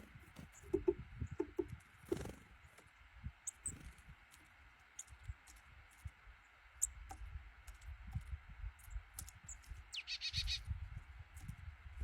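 Small birds giving short, high chirps every so often, with one longer, harsher call about ten seconds in. Low knocks and rumble sound underneath.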